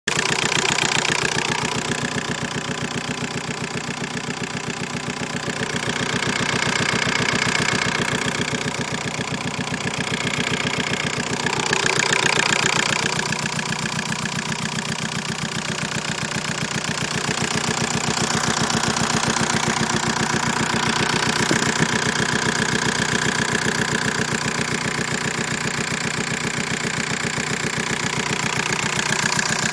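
Engine idling with a steady, fast, even knocking from the engine bay.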